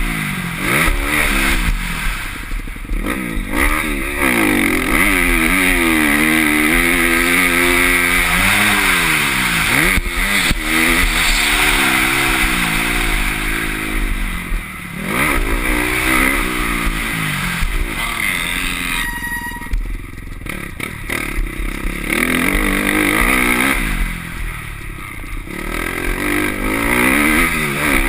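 Motocross bike engine heard from the rider's helmet camera, revving up and down again and again as the throttle opens and closes, with wind rush over the microphone. The engine note drops away briefly about two-thirds of the way through, then picks up again.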